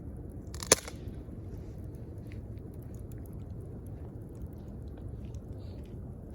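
Wood campfire crackling: scattered small pops and clicks, with one loud sharp pop just under a second in, over a steady low rumble.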